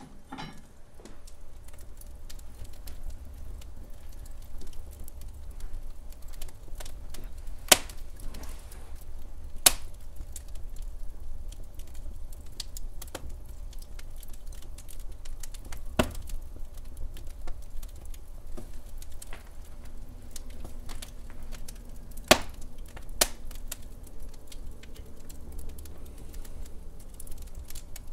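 Wood fire in a fireplace crackling: a steady run of irregular small snaps, with a few louder pops about 8, 10, 16 and 22 seconds in, over a low rumble of the burning logs.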